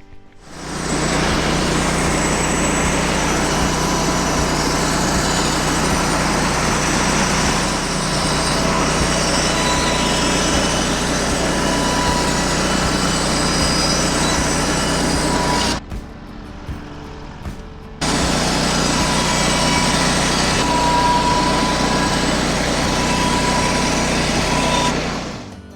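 An engine running steadily under a constant rushing noise, broken by a sudden two-second drop partway through.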